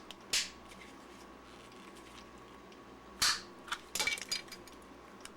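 Two sharp plastic snaps, one just after the start and one a little past three seconds, then a quick run of small clicks near four seconds: the plastic case of a Sony NP-11 battery pack being cut and pried apart along its seam.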